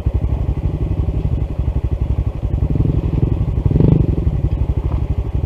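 Small single-cylinder motorcycle engine idling with a fast, even putter, swelling briefly about four seconds in.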